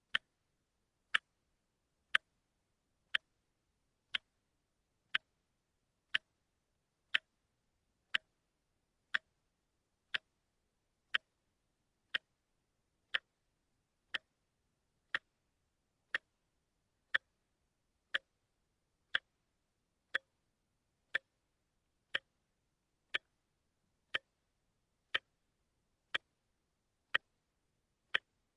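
Watch ticking steadily, one sharp tick a second, with silence between ticks.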